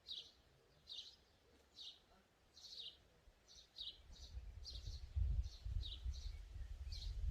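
A small bird chirping over and over, short high chirps about once a second that come quicker near the end. From about four seconds in, a low rumble builds up and becomes the loudest sound.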